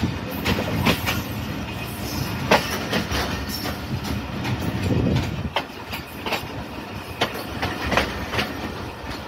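Passenger train running on the rails: a steady low rumble with irregular sharp clicks and knocks as the wheels pass over rail joints. The rumble swells briefly about halfway through.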